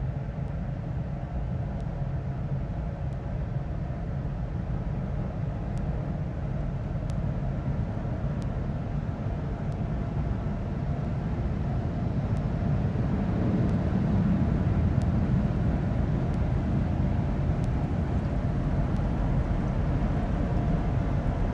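Automatic car wash's air dryer blowing on the car: a steady rushing noise that grows louder partway through.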